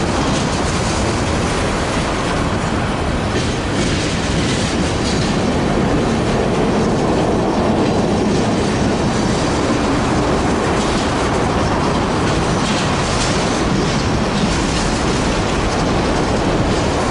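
A freight train's cars rolling past: a loud, steady rumble of steel wheels on the rails, with scattered clicks as the wheels cross rail joints.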